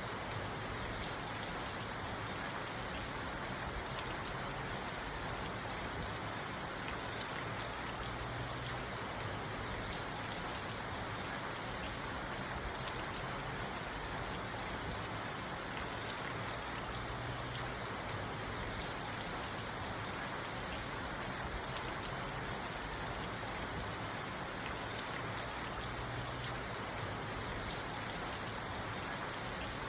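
Steady rain falling on a parked car's roof and windows, heard from inside the cabin, with a dense patter of small drop ticks.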